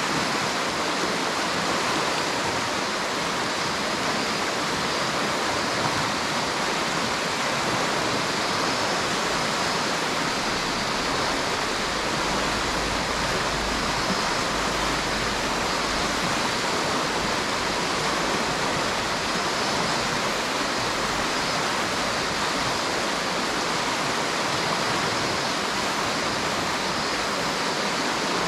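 A river's water flowing, as a steady, even rush that does not change.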